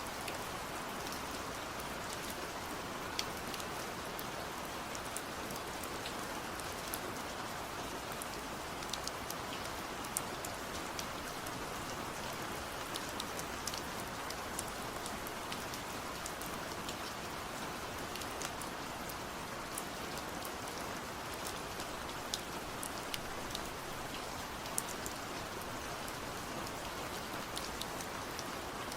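Steady rain falling on a surface, a continuous hiss with many distinct drops ticking through it.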